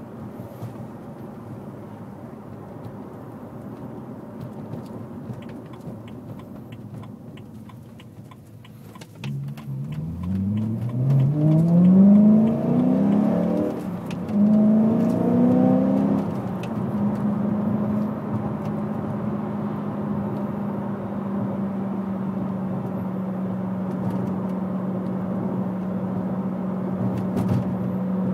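BMW E92 M3's 4.0-litre V8, breathing through an aftermarket Agency Power exhaust with a Fabspeed X-pipe and high-flow cats, heard from inside the closed cabin. It runs lightly at first. About ten seconds in, the car accelerates hard: the engine note rises, drops at a gear change, and rises again, then settles into a steady drone at cruise.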